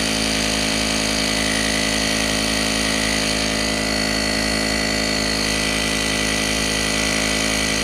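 Cordless electric tire inflator pump running steadily as it pumps air into an e-bike tire, an even motor hum with a high whine over it.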